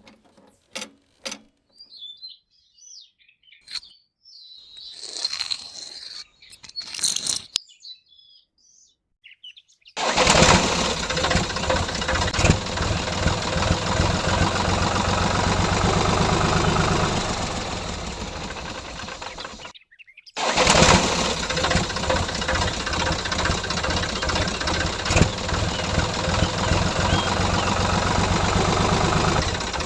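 Small engine of a DIY mini tractor starting up and running steadily, cutting out briefly about twenty seconds in and then running again. Before it starts, a few scattered clicks and bird chirps.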